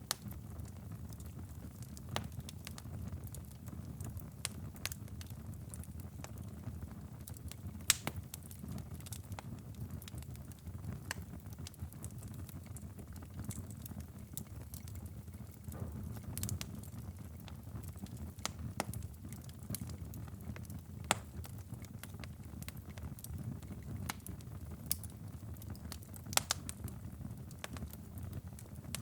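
Wood fire crackling, with a steady low rumble of flames under scattered sharp pops and snaps that come at irregular moments, a few of them louder than the rest.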